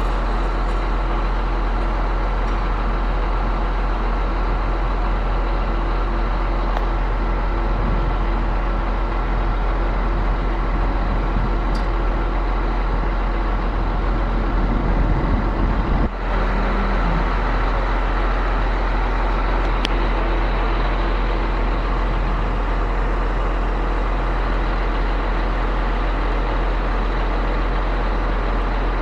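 Truck-mounted concrete pump running steadily under its diesel engine, a continuous low mechanical drone with a few steady tones. About sixteen seconds in, the sound swells, briefly dips, and then settles back to the same steady running.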